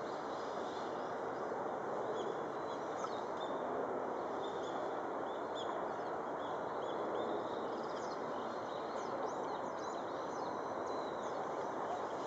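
Many short, high bird chirps scattered throughout, over a steady rushing background noise.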